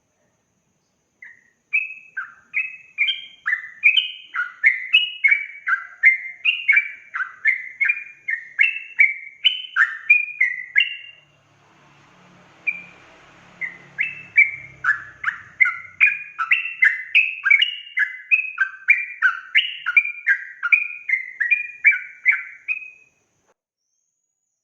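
Yellow-vented bulbul singing a fast, continuous run of short bubbly chirping notes, about one and a half a second. It breaks off for a few seconds near the middle, then starts again and stops a little before the end.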